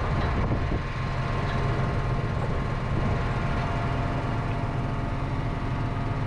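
Farm tractor engine running steadily, a low, even drone heard from inside the cab.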